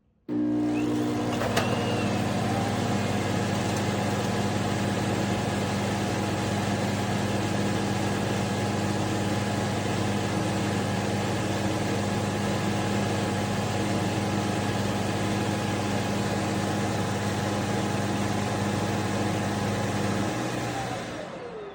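Vacuum motor of a Shark robot vacuum's self-emptying base switching on abruptly and running steadily with a loud whirring hum. Near the end it winds down, its whine falling in pitch as the motor spins down.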